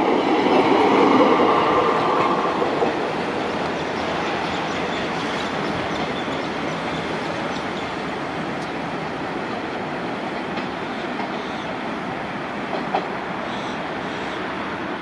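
Passenger train coaches running on the rails, their wheel noise loudest in the first couple of seconds as the last coach goes by, then settling to a slightly quieter steady noise as the train moves away.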